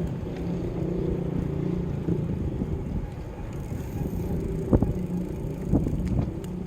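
Bicycle ride noise: a steady low rumble of rolling and wind on the microphone, with a few sharp knocks about five and six seconds in.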